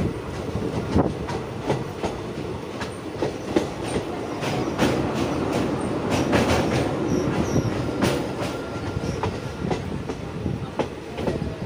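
Passenger train running at speed on the track: a steady rumble with irregular sharp clacks of the wheels passing over rail joints.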